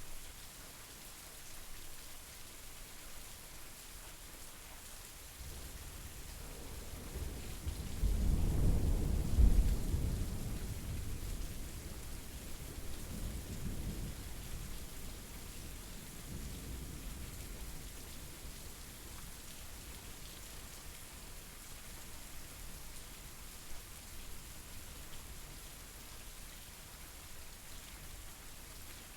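Steady rain falling, with one long low roll of thunder that builds about six seconds in, is loudest around nine to ten seconds, then rumbles away over the next several seconds.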